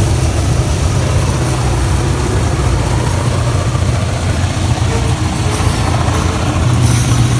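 Diesel freight locomotives passing close by, a steady heavy engine rumble with rail noise.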